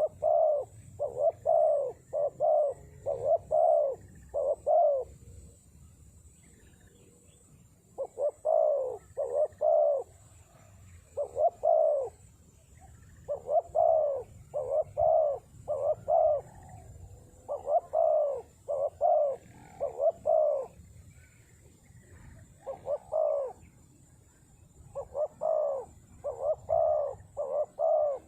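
Spotted dove (terkukur) cooing: repeated phrases of several short coos each, separated by pauses of a second or two, with a longer pause about five seconds in.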